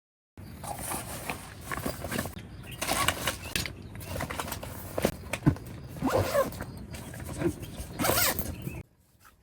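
A zipper being pulled several times amid rustling and scraping of handled gear. It starts suddenly and cuts off sharply near the end.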